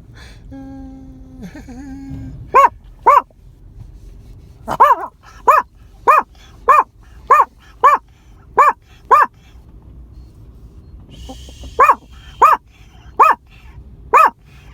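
Dog barking in short, loud volleys: two barks, then a steady run of about eight, a pause, then four more.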